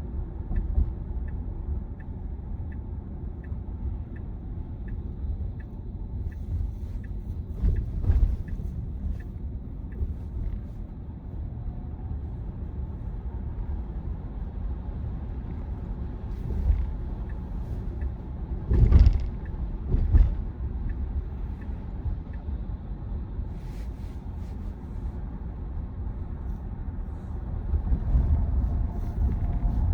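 Road and tyre rumble inside the cabin of a moving Tesla Model Y, an electric car with no engine note. For the first third a turn-signal indicator ticks evenly, about two or three ticks a second, and a few heavier thumps come later, as over bumps in the road.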